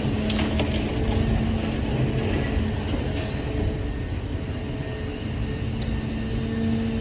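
Idromec T 650 CLS hydraulic scrap metal shear baler running: a steady, loud machine noise with a held low hum, and a few sharp metallic clicks about half a second in and again near the end.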